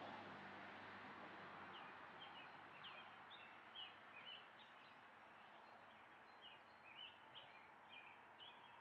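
Faint chirping of a small bird, short quick notes repeating irregularly from about two seconds in, over a steady low hiss.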